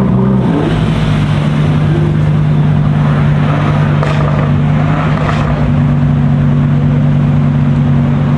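Car engine running steadily at idle close by: a constant low hum, with the noise of other engine and traffic rising briefly a couple of times.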